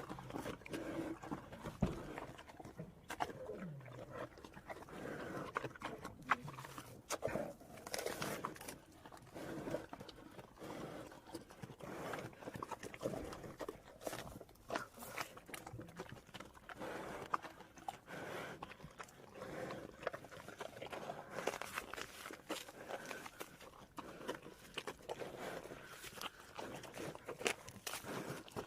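Bear vocalizing in short, irregular sounds, mixed with many sharp clicks and knocks.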